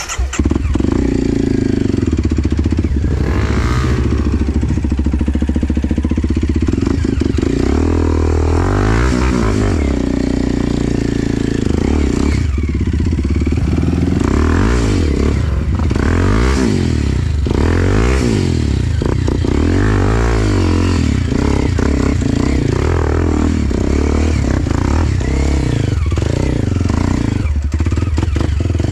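Enduro dirt bike engine running hard, its pitch rising and falling over and over as the throttle is worked.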